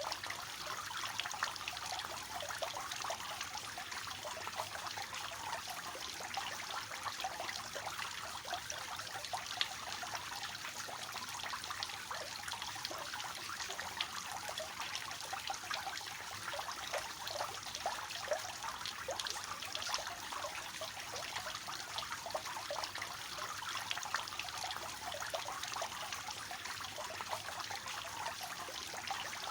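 Water from a three-tiered cascade fountain falling and splashing steadily into its basins, a continuous trickling with many small splashes.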